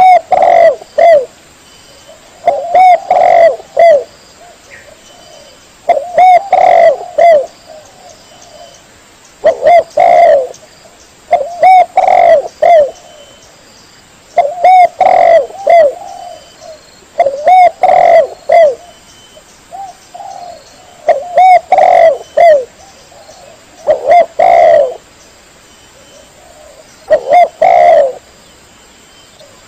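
Spotted dove (tekukur) cooing: a phrase of a few coo notes, repeated about once every three seconds, about ten times.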